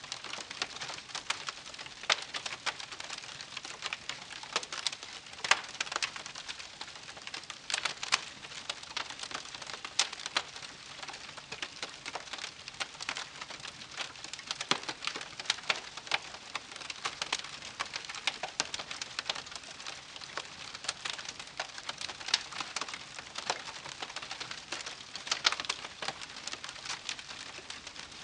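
Wood campfire crackling: a dense, irregular run of sharp pops and snaps over a soft hiss of burning.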